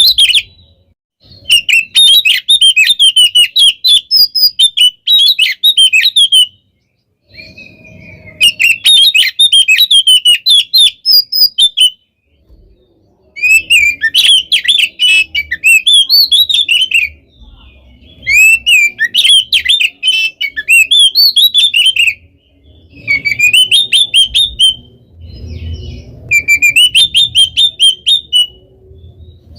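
Oriental magpie-robin (kacer) singing loud, rapid phrases of chattering and trilling notes, in bursts of a few seconds separated by short pauses.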